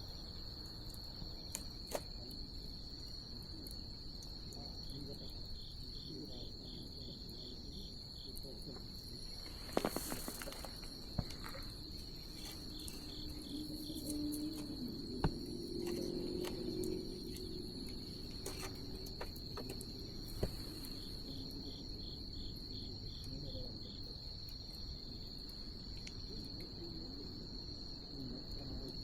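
Crickets singing in a steady, high continuous trill, with another insect chirping in short rapid runs three times. A wood fire crackles underneath, with a few sharp pops, the loudest about ten seconds in.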